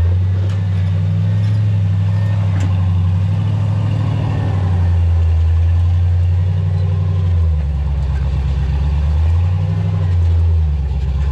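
An off-road vehicle's engine running at low, steady revs with a deep drone, its pitch dropping and rising again a couple of times in the second half. A few light knocks sound early on, about half a second and two and a half seconds in.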